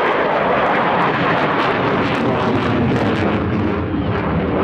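F-16 fighter jet flying a display loop, its engine making a loud, steady jet noise.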